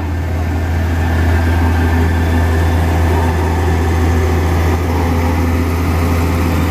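Diesel engine of a vibratory road roller running with a steady, low, even drone while its drum vibrates to compact the road.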